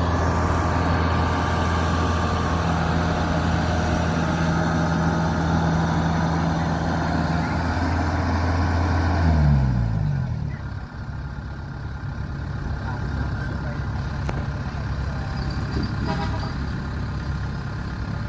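Kubota DC70 combine harvester's diesel engine running steadily while driving through sticky, wet paddy mud. About halfway through, its pitch falls and it settles into a lower, quieter running sound.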